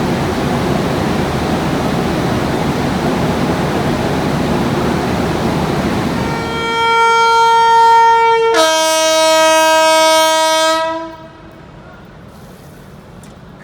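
A loud steady rushing noise fades about six seconds in, and an electric locomotive's air horn sounds for about five seconds: one note first, then a lower two-note chord about two seconds later, cutting off sharply.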